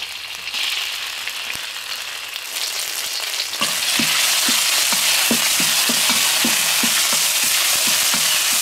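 Red pepper paste sizzling in hot oil in a wok. About three and a half seconds in the sizzle grows louder, and a metal wok spatula starts scraping across the pan, about three strokes a second.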